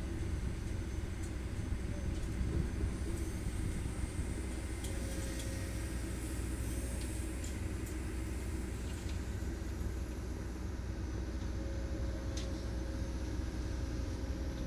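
Hydraulic excavator's diesel engine running with a steady low rumble, with a few faint sharp ticks over it.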